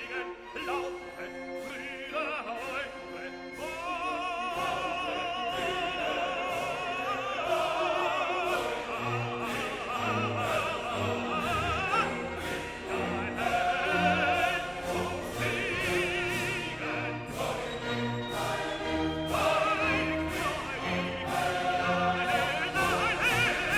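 Operatic singing with a wide vibrato over instrumental accompaniment.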